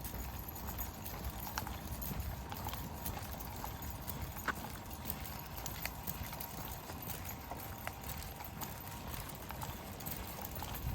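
Footsteps of a walker and a pack of dogs on a trail: a steady run of footfalls with scattered light clicks over a low rumble.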